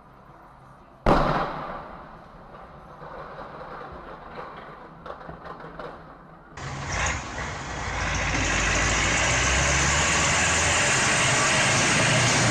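A sudden loud bang about a second in that dies away, then vehicle and road noise. About six and a half seconds in, a louder steady road and engine noise starts abruptly.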